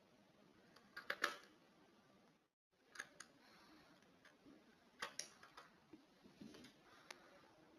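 Near silence with faint, scattered clicks and taps, mostly in close pairs, about a second in, around three and five seconds in, and once more near seven seconds.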